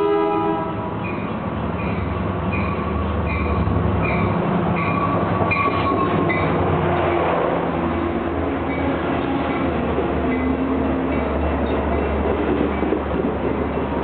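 DE30AC diesel-electric locomotive pulling into a station. A horn chord cuts off about half a second in, then the locomotive bell rings about once every three quarters of a second until about six seconds in. Under it the diesel engine and rolling train keep up a steady drone, with brief squealing tones as the train slows.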